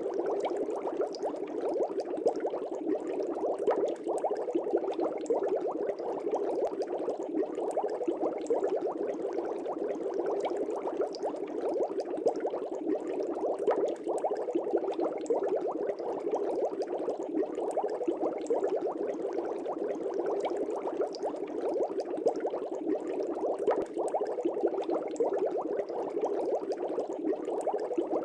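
Fish tank bubbles rising and bursting in the water, a steady, dense bubbling that keeps up without a break.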